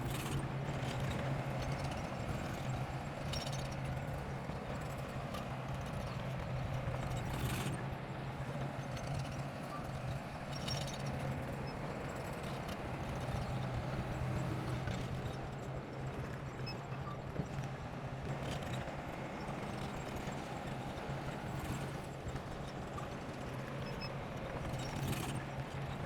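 Bulldozer running with a steady low diesel hum and the rapid clatter of its steel tracks, with a few sharper clanks.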